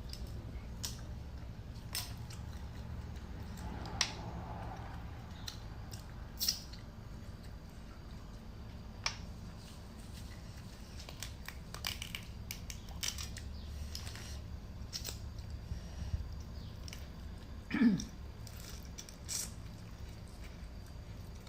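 Eating sounds of a person working through shell-on shrimp and shellfish: scattered sharp clicks and cracks of shells and utensils, with chewing. About 18 seconds in there is one brief, louder sound that falls in pitch.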